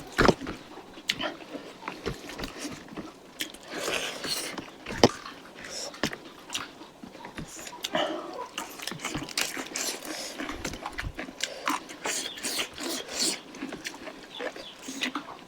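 Close-up eating sounds of people at a mukbang: chewing and lip-smacking in an irregular run of wet clicks and smacks, with one sharper click about five seconds in.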